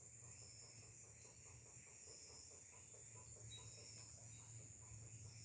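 Faint, rapid series of calls from an unidentified wild animal, several a second, over a steady high insect buzz; the filmer takes the calls for monkeys.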